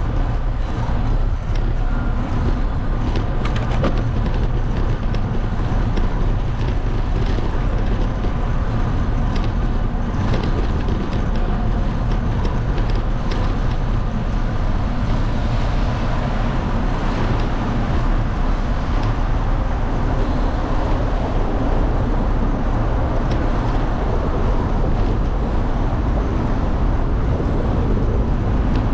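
Steady low rumble of wind buffeting the microphone of a moving bicycle, mixed with road traffic noise.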